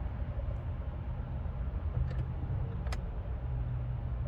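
Steady low hum in a 2013 Hyundai Sonata's cabin, with a few light clicks as the push-start button is pressed; the engine does not crank or turn over, the car's recurring no-start fault.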